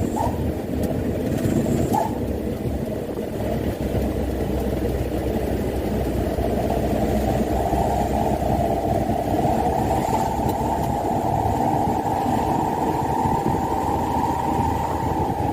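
Mitsubishi Canter dump truck's diesel engine running steadily on the road, its note rising slightly partway through and then holding.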